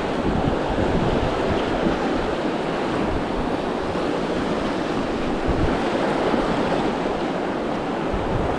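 Steady rush of river water, with wind buffeting the microphone as a gusty low rumble.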